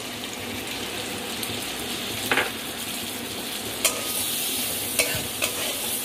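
Wet spice paste sizzling in hot oil in a kadai while a metal spatula stirs it through fried potato pieces. A few sharp clinks of the spatula against the pan sound over the sizzle.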